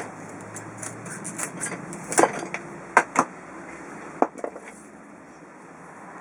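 Several sharp knocks and clicks, the loudest about two and three seconds in, over a steady rushing noise.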